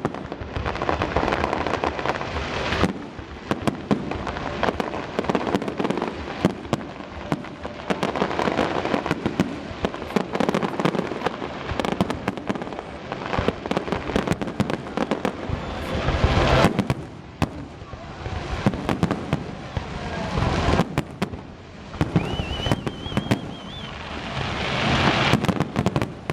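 Aerial fireworks display: a dense, continuous barrage of shell bursts and crackling, with a short rising whistle a little past the middle.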